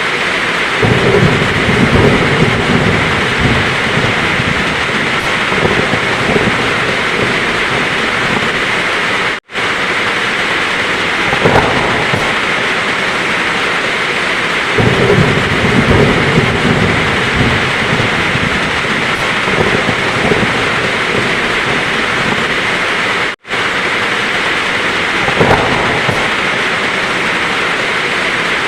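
Heavy rain pouring steadily, with rolling thunder rumbling low several times. The sound cuts out completely for a split second twice.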